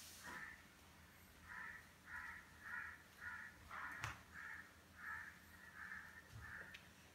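Faint calls from a bird, repeated about one every half second. A single sharp knock comes about four seconds in.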